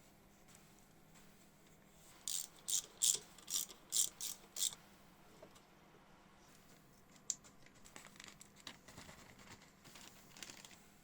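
Ratchet wrench clicking in seven quick strokes, then fainter scattered handling noises of tools and parts.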